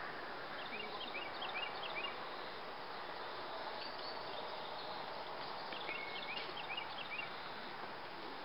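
A small bird singing two short phrases of quick high chirps, one about a second in and another about six seconds in, over steady outdoor background noise.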